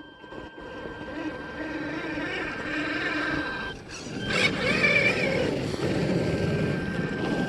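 Electric motor and gearbox of an RC scale truck whining as it drives. The sound dips briefly about four seconds in, then comes back louder with a wavering pitch.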